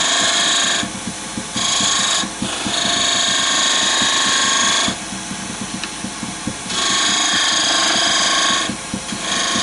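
Wood lathe spinning a piece of wood while a hand-held turning tool cuts into it in about five passes of one to two seconds each. Each cut gives a high, steady scraping tone, and between cuts only the lathe's quieter running is heard.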